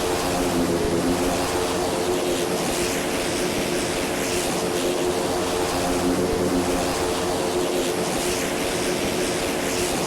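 Cessna's propeller engine running steadily: an even drone with several steady tones underneath.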